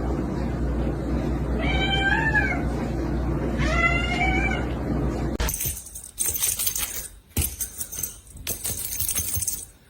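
A cat meowing twice, each meow about a second long, rising and then falling in pitch, over a steady low hum. About five and a half seconds in, the hum cuts off and scattered clattering and rustling follow.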